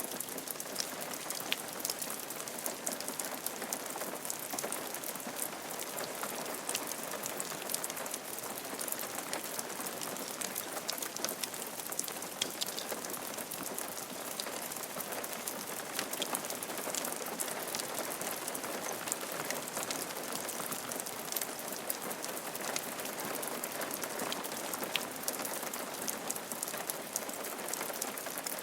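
Steady rain falling on a roof, a continuous hiss dotted with many small sharp drop hits.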